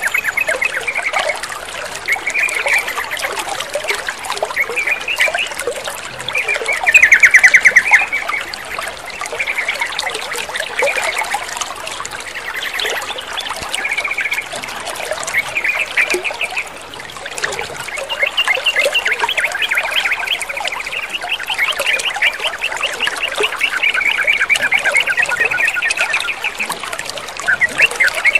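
Yellow-vented bulbul (trucukan) calls in repeated fast, chattering trills over a steady trickle of running water. The loudest burst of chatter comes about a quarter of the way in.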